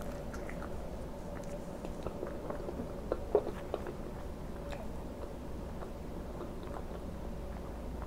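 Close-miked chewing of a bite of syrup-glazed sausage patty: a run of small wet mouth clicks, with a louder cluster of clicks about three seconds in.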